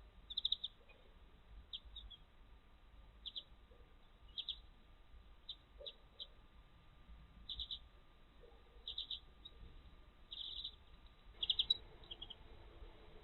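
Small songbird chirping: short high chirps, often in quick pairs, about every second. A faint steady hum comes in near the end.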